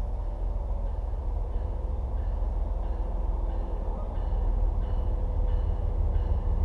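Distant MBTA commuter train with an MPI HSP46 diesel locomotive approaching: a steady low rumble with a faint steady whine, growing a little louder about four seconds in.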